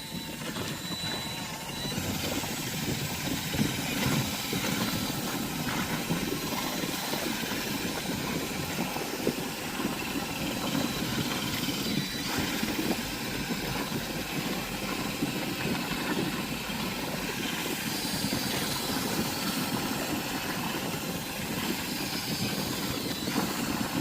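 Power drill spinning a toilet brush through potatoes and water in a wheelbarrow to scrub off the soil: a steady motor drone with water churning.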